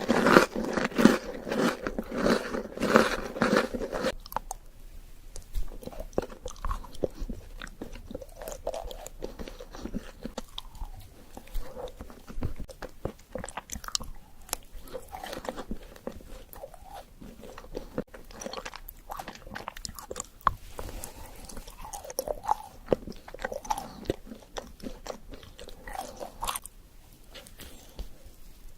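Close-miked eating of an Oreo chocolate dessert: loud, rapid crunching for the first four seconds or so, then softer chewing with scattered small crunches and mouth clicks.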